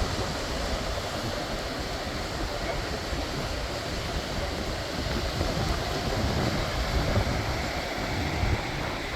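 Steady rushing wind and road noise of a moving car, with low, uneven buffeting on the microphone.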